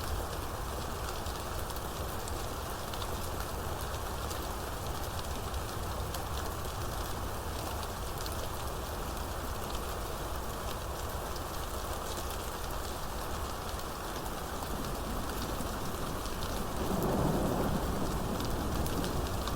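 Steady heavy rain falling, with a low rumble of thunder swelling in near the end.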